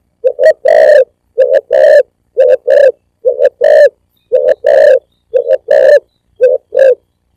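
Spotted dove (tekukur) cooing, a loud two-part coo, a short note then a longer one, repeated about once a second, about seven times. It is a recording made to lure wild spotted doves.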